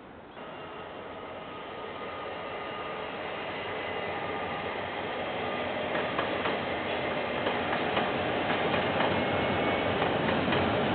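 KiwiRail diesel train approaching and growing steadily louder, with a faint high whine early on. From about six seconds in, the wheels click over the rail joints.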